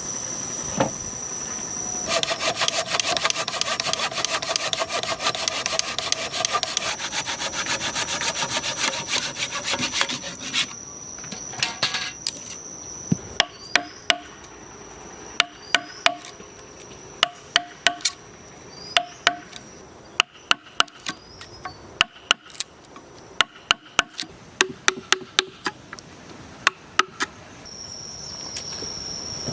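Wood being worked with hand tools: a few seconds of rapid sawing strokes, then a series of sharp knocks or chops, often in pairs, about one a second. A steady high whine runs underneath at the start and end.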